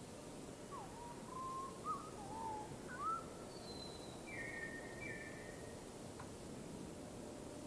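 Bird calls: a few short whistled notes that slide up and down in the first three seconds, then two flat higher notes around the middle, over a steady background hiss.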